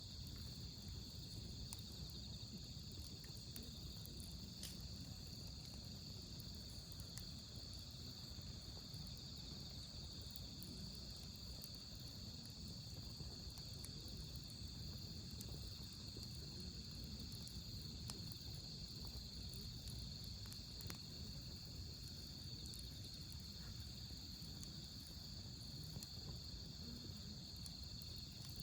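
Crickets trilling steadily in the autumn night, with a few faint crackles from a wood campfire.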